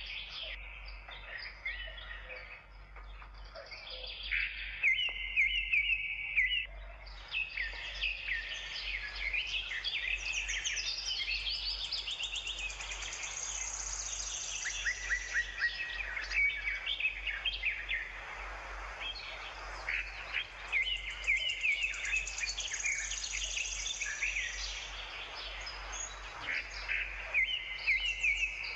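Several birds chirping and singing together, a dense run of quick chirps and trills with no pause.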